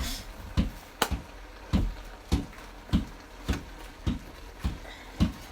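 Stirring in a cooking pot of cabbage and kale, the utensil knocking against the pot in a steady rhythm a little under twice a second.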